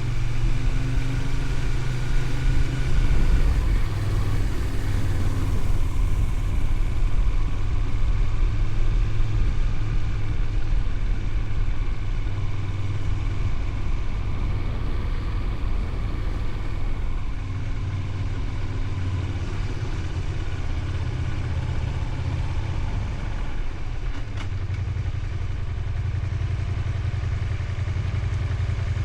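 Honda VTR250's V-twin engine running as the motorcycle is ridden, settling into a steady low, even note near the end.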